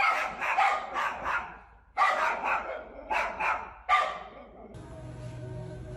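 A dog barking in quick runs, about three barks a second, with a short break about two seconds in. The barking cuts off shortly before five seconds in, and music takes over.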